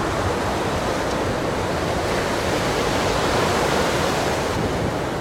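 Ocean surf breaking and washing ashore as a steady rush of noise.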